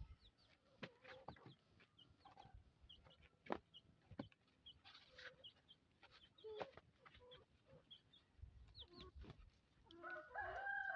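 Chickens clucking faintly, with scattered short high chirps and a few light knocks, and one longer held call near the end.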